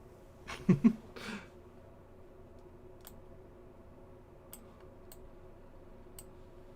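Computer mouse clicks: a loud pair of clicks about a second in, then a few faint single clicks a second or so apart.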